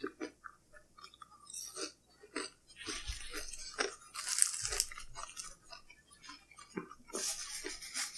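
Close-up eating sounds: a BLT sandwich with crispy bacon and tater tots being bitten and chewed, as irregular crunches and moist chewing that get heavier a few seconds in.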